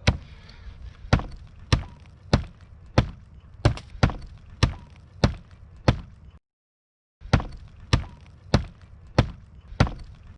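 Firewood being split by hand: a steady series of sharp blows into a log, about one every half second or so, with a short break just after the middle.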